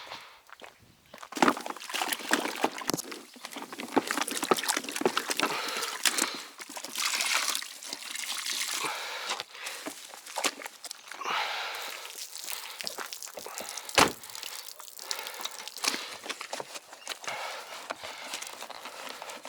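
Wet microfiber wash mitt being worked over a car with soapy water: irregular sloshing, wiping and dripping, starting about a second in.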